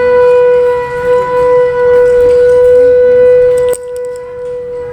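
One long blown note on a horn-like wind instrument, held steady in pitch and fairly loud. About a second before the end it drops sharply in loudness and carries on more faintly.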